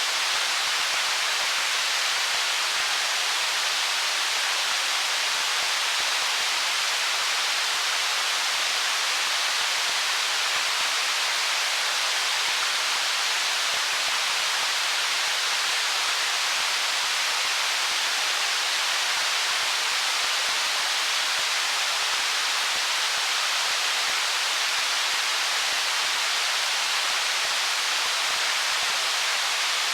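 Stream water rushing over stones as an even, unbroken hiss, bright with little low rumble and no separate splashes or gurgles.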